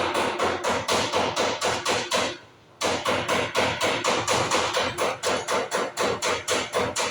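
A hammer striking rapidly and evenly, about five blows a second, with a short pause about two and a half seconds in.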